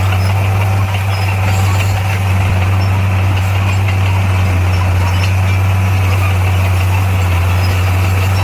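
Heavy diesel engine of earth-moving equipment running at a steady speed, a constant deep tone that does not rise or fall.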